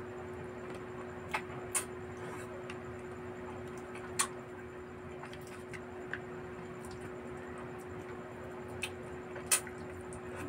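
Close-up eating sounds of someone chewing grilled chicken head by hand: several short, sharp mouth clicks and crunches scattered through, over a steady low hum.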